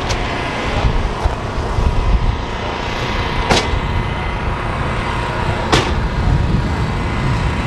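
Car engines running with a steady low rumble, broken by a few sharp clicks or knocks.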